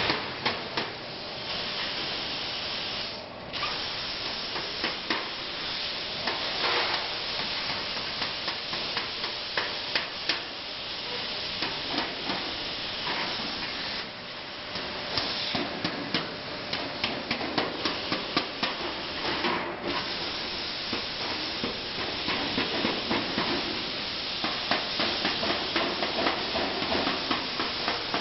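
CNC plasma torch cutting metal: a steady hiss of the plasma arc and gas, with frequent crackles and pops. The hiss briefly breaks off about 3 seconds in and again near 20 seconds.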